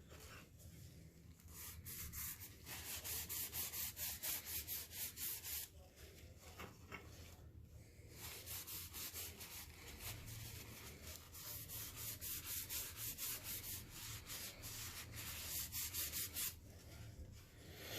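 Sandpaper rubbed back and forth in quick scratchy strokes, about four a second, in several runs with short pauses between them.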